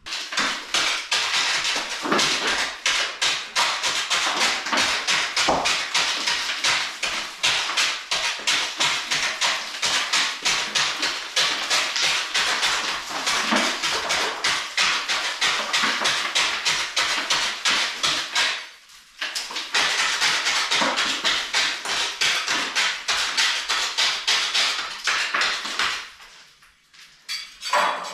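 Rapid, continuous strokes of a hand tool against an old masonry wall, scraping and chipping off soot baked into the plaster. The strokes pause briefly about two-thirds through, resume, and stop shortly before the end.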